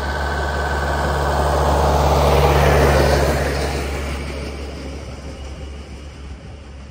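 Diesel-hauled passenger train passing: a deep steady engine hum and broad rail noise build to their loudest about three seconds in, then fade as it moves away.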